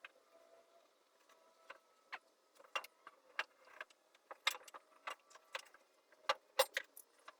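Irregular metallic clinks and knocks of an exhaust header being maneuvered into place in a car's engine bay, the metal tapping against metal, sparse at first and coming faster and louder over the last few seconds.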